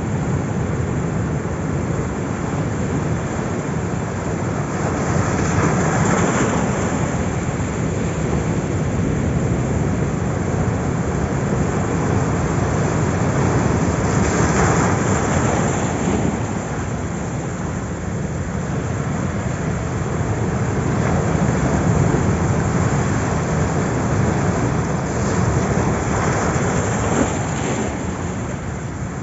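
Ocean surf: a steady rush of waves, swelling and easing every several seconds as waves break and wash in.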